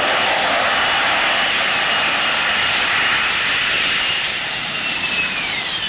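Aircraft engine noise: a steady loud roar with a high whine that starts to fall in pitch near the end, as the aircraft goes past.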